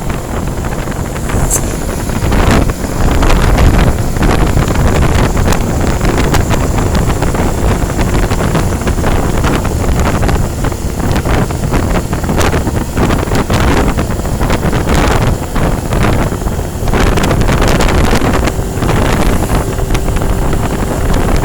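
Road traffic noise from trucks on the highway: a continuous heavy rumble, heavily buffeted by wind on the microphone.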